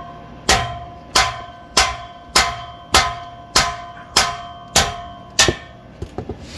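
Steady hammer blows on a steel exhaust, about nine ringing clangs a little over half a second apart, then a few lighter taps near the end, to knock the muffler section loose from the pipe after its hanger and clamp are off.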